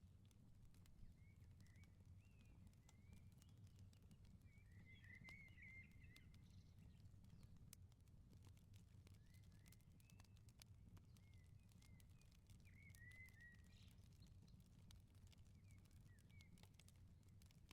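Faint wood fire in a garden firepit crackling, with scattered small pops and ticks. Birds chirp in short twittering phrases, busiest about five seconds in and again near the end, over a low steady rumble.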